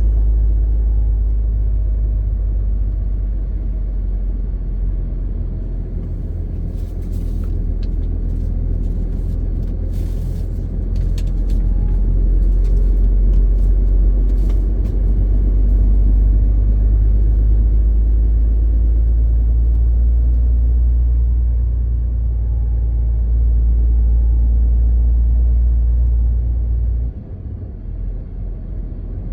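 MAN TGX 18.520 truck's inline-six diesel running under way as a steady low drone with road rumble. A few faint clicks come in the middle, and the engine sound drops suddenly near the end.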